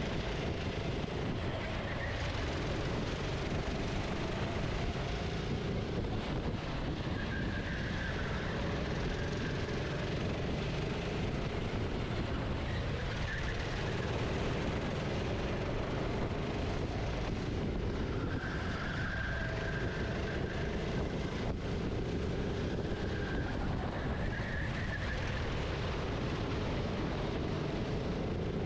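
Onboard sound of a racing kart's engine, its pitch climbing and dropping again and again as the driver accelerates and lifts through the corners, over a steady rushing noise.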